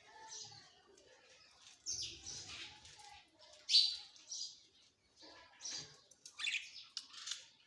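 Parrot chirping and squawking in a string of short, high-pitched calls at uneven intervals, the loudest a little under four seconds in.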